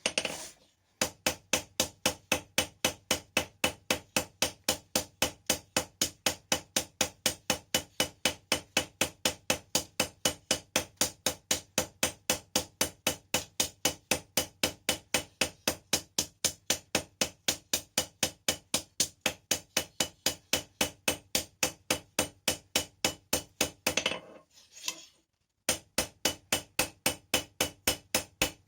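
Hand hammer striking hot steel rebar on an anvil, an even run of blows at about three a second, each with a metallic ring. The hammering stops briefly twice, once just after the start and once a few seconds before the end.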